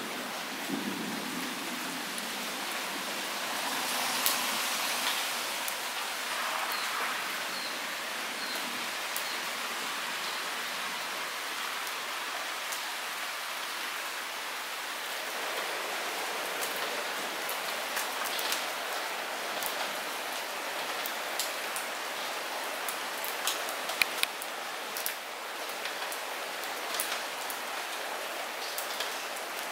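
Light rain falling steadily, with nearby drops striking as sharp ticks, more of them in the second half and a couple of louder ones near the end.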